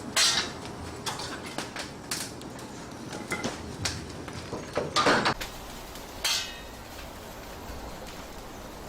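Kitchen work clatter: a series of irregular sharp knocks and metallic clinks, like utensils, pans or a blade striking, the loudest near the start and about five seconds in.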